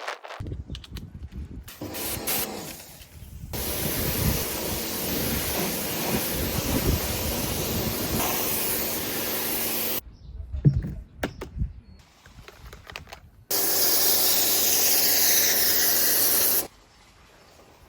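Pressure washer spraying in two long bursts, about six seconds and then about three seconds, each starting and stopping abruptly. There are a few knocks between the bursts.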